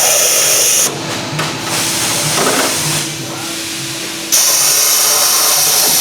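A loud, steady hiss of compressed air comes in two long blasts that start and stop abruptly, the first ending about a second in and the second starting past the halfway point. A quieter, steady hum fills the gap between them.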